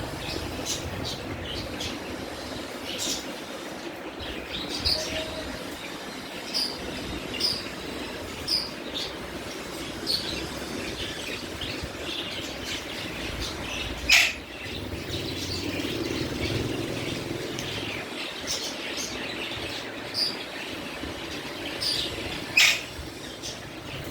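Pet parrots chirping in short scattered calls over a steady background noise, with two much louder sharp calls, one about halfway through and one near the end.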